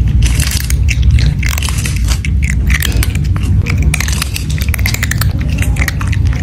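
Loud, fast chewing and crunching of food being eaten, dense rapid bites over a heavy low rumble.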